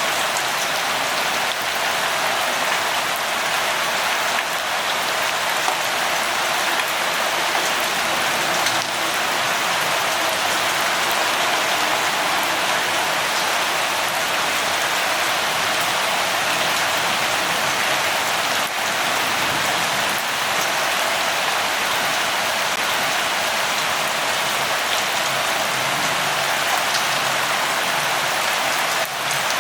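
Steady rainfall: an even hiss of many small drops.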